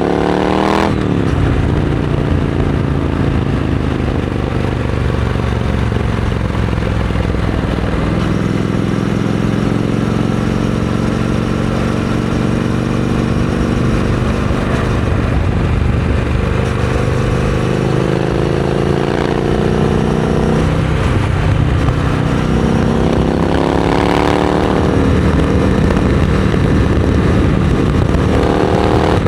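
Triumph Scrambler 900 parallel-twin engine running through a Vance & Hines aftermarket exhaust. It climbs in pitch and drops sharply about a second in, runs steadily for a long stretch, then climbs and drops again twice later on, like a motorcycle accelerating through upshifts.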